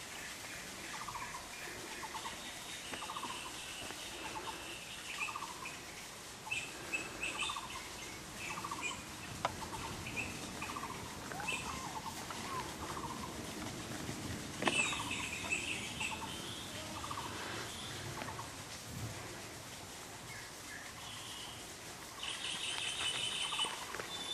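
Outdoor ambience: a bird repeating a short call about once a second, with insects trilling in the background. There is a sharp click about 15 seconds in.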